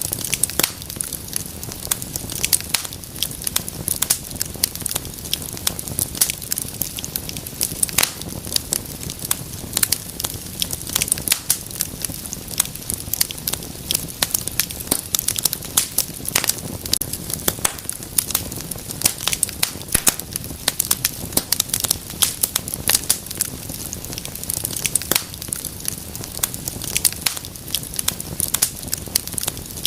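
Wood fire crackling steadily: dense, irregular sharp pops and snaps over a soft steady hiss.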